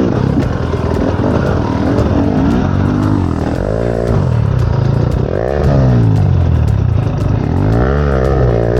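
Enduro dirt bike engine being ridden on a trail, its revs rising and falling in repeated blips about three times.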